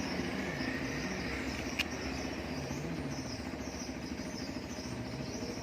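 Outdoor ambience: a steady, pulsing insect buzz over a low engine drone whose pitch slowly rises and falls, with one sharp click about two seconds in.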